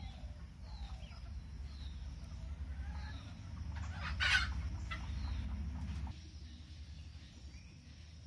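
Birds calling outdoors: a few short falling chirps, and one louder, harsh squawk about four seconds in. Under them runs a low rumble that drops away abruptly about six seconds in.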